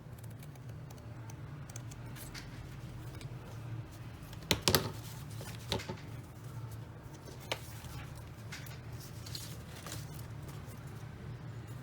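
Small handling sounds of cross-stitching on aida fabric: a few sharp clicks and snips, the loudest pair a little before halfway through, over a low steady hum.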